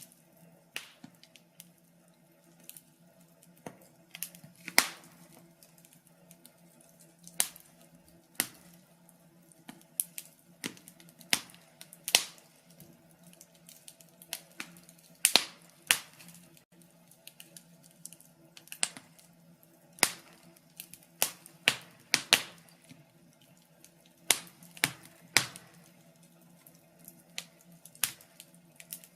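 Wood fire crackling in a fireplace: irregular sharp pops and snaps, some loud and several close together at times, over a faint steady low hum.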